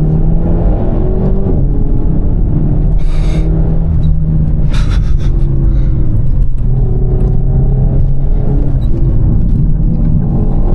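Renault Mégane RS Trophy's 1.8-litre turbocharged four-cylinder engine pulling hard, its pitch rising and falling through the revs, with two brief sharp crackles about three and five seconds in.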